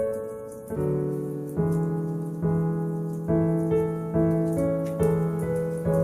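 Slow solo piano music, a chord struck about once a second and left to ring. Faint crackling of a wood fire sits above it.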